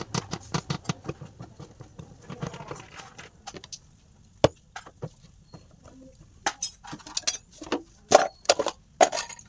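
Irregular metallic clinks and knocks of tools and metal parts being handled during motorcycle servicing, with one sharp knock midway and a louder cluster near the end.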